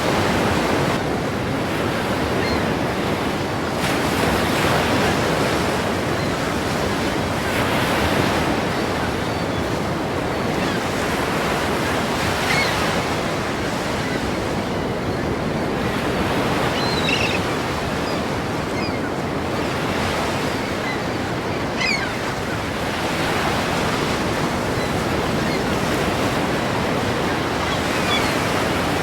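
Ocean waves crashing: a continuous rush of surf that swells every few seconds as each wave breaks.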